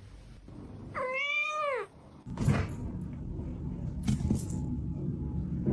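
A domestic cat meows once, a call of about a second that rises and then falls in pitch. It is followed by low rustling noise with a few knocks.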